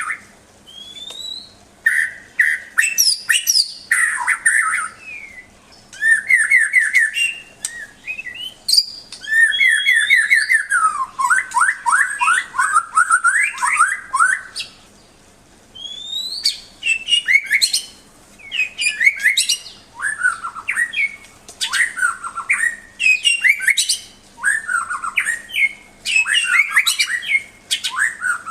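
White-rumped shama (murai batu) singing a long, varied song: fast runs of clear whistled notes, rising and falling sweeps, trills and chattering phrases, with short pauses between phrases.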